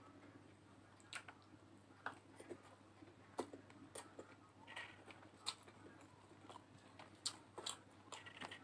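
Faint chewing of egg noodles eaten by hand, with scattered soft clicks.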